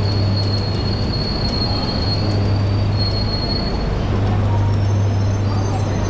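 E3-series Shinkansen train rolling slowly along the platform as it brakes to a stop. A high, steady squeal rings out for the first few seconds and fades away, over a steady low hum and rumble.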